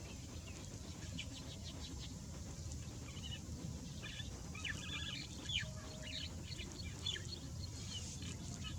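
Birds chirping: a run of short, quick calls starts about three seconds in, over a steady low rumble.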